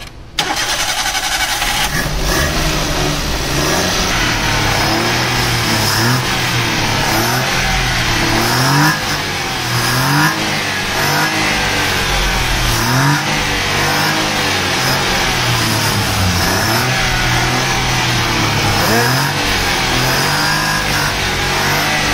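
Maruti Alto 800's three-cylinder petrol engine running and being revved up and down repeatedly during a throttle body cleaning with cleaner spray. It starts suddenly just after the beginning, and its pitch keeps rising and falling.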